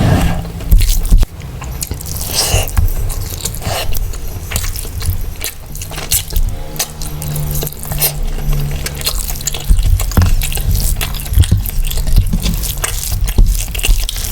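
Close-miked eating sounds: a person chewing mouthfuls of mutton biryani and mutton curry, with many short, irregular sticky clicks.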